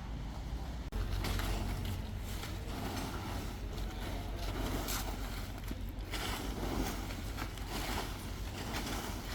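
Crane engine running steadily with a low hum that gets louder about a second in, with a few faint knocks over it.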